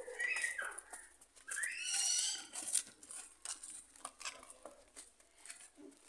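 A bird calling twice in short high calls: a falling call at the start, then a louder rising one about two seconds in. Scattered light clicks of hooves and footsteps on the concrete lane come with the calls.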